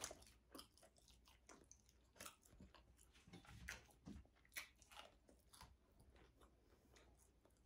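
Faint mouth sounds of a person chewing food close to a microphone: soft, irregular clicks and smacks.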